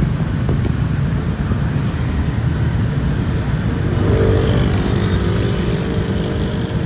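Road traffic: motor vehicles running in a steady rumble, with a louder engine passing close by from about four seconds in.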